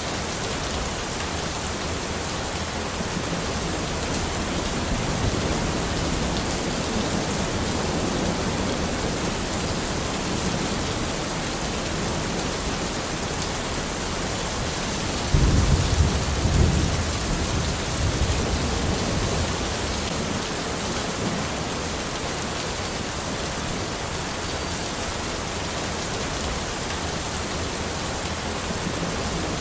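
Steady rain falling in a forest. About halfway through, a low rumble of thunder sets in suddenly and fades away over a few seconds.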